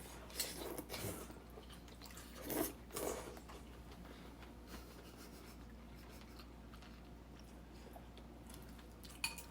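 A few soft knocks and rubbing noises in the first three seconds, then low steady room tone, with another brief click near the end.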